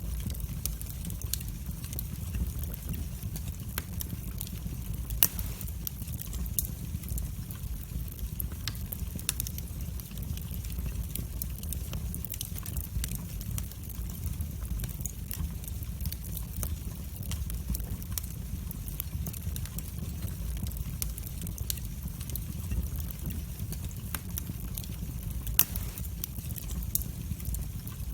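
Wood fire burning in a fireplace: a steady low rumble of flames with frequent small crackles, and two sharper pops, one about five seconds in and one near the end.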